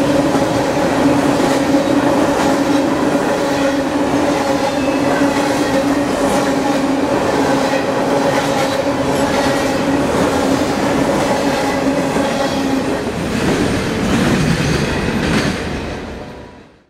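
Freight train boxcars rolling past at speed: a steady rumble and rattle of steel wheels on rail, with clickety-clack over the rail joints and a steady hum under it. The hum stops about three-quarters of the way through as the end of the train goes by, and the sound then fades out.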